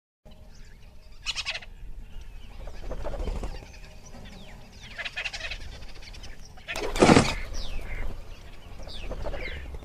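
Birds calling and chirping in a nature ambience, with short chirps and gliding calls and a louder call about seven seconds in.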